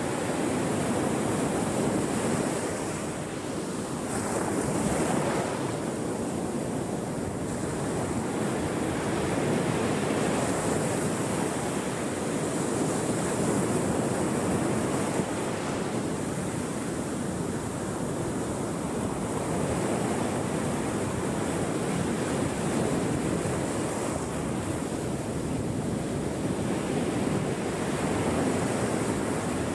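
Ocean surf: a continuous wash of breaking waves, swelling and easing every few seconds.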